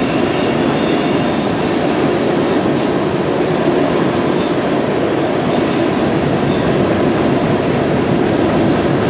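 Coal hopper cars of a long freight train rolling on a curve: a steady rumble of wheels on rail, with thin, high wheel squeal in the first few seconds and again around the middle.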